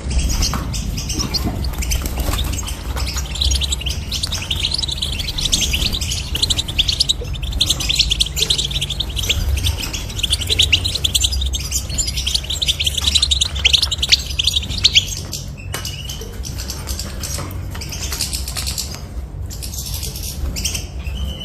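European goldfinch song: fast, continuous twittering and trilling, thinning out in the last few seconds, over a steady low hum.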